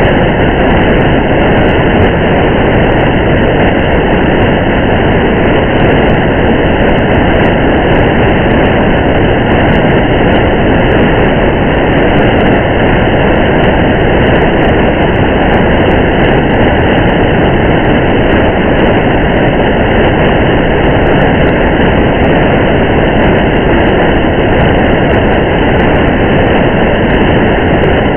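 A car driving on a highway in the rain: a steady, unchanging wash of rain and tyre and road noise.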